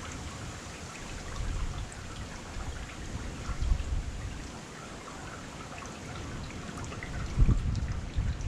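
Heavy rain falling steadily, a dense patter, with uneven low rumbling swells underneath that grow strongest near the end.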